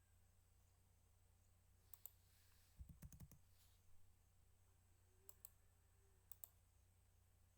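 Faint computer mouse clicks, mostly in quick pairs, about four times over the few seconds, with a small cluster and a soft thump near the middle, over a low steady hum.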